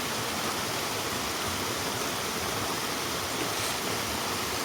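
Mountain stream water flowing, a steady, even rush.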